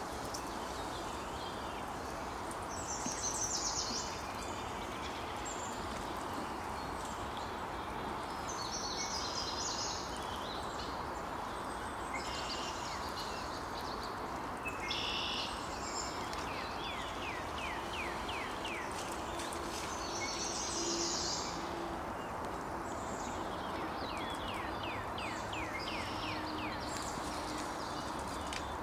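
Wild songbirds singing outdoors: short high songs repeated every several seconds, with quick runs of falling notes in between, over a steady rushing hiss.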